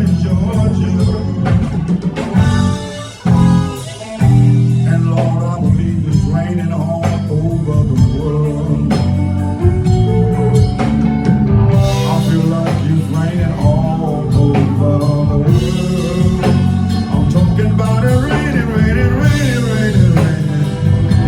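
Live blues band playing a slow number with electric guitar, bass and drums; the band briefly drops out about three seconds in, then comes back in.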